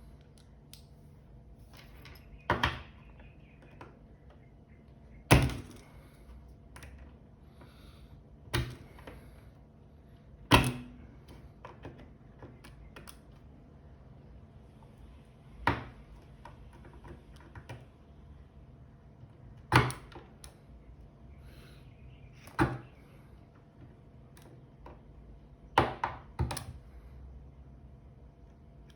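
Sharp, separate clicks and knocks, about nine at irregular intervals, from hands and a small tool working on a G-Shock watch and its band.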